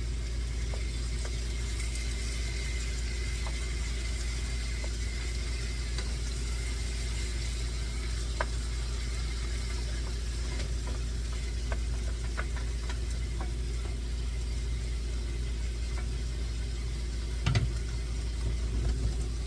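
Peppers and onions sizzling in olive oil in a frying pan, with scattered light clicks of a utensil stirring, over a steady low hum. A louder knock comes near the end.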